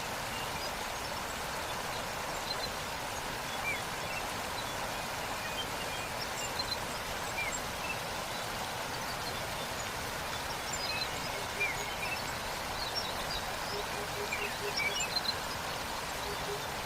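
Steady rush of a waterfall, with small birds chirping and twittering over it. Near the end a low call repeats in short quick runs.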